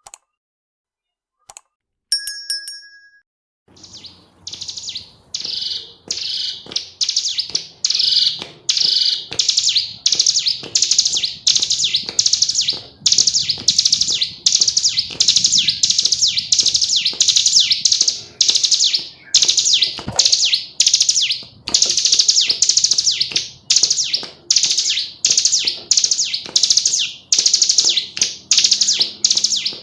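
Female ciblek gunung (a prinia) calling without pause: a steady string of short, high chirps, each falling in pitch, about two a second. A brief chime sounds about two seconds in, before the calls begin.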